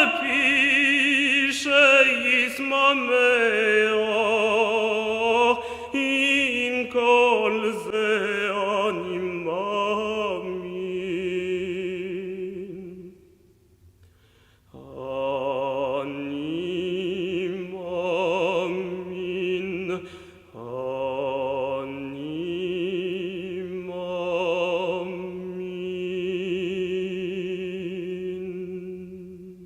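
Operatic singing: a single voice with wide vibrato holding long notes, breaking off for about a second halfway through and then resuming.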